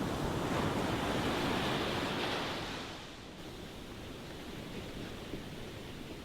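Ocean waves washing onto a shore: a wave breaks and rushes in during the first half, then fades to a softer wash about three seconds in.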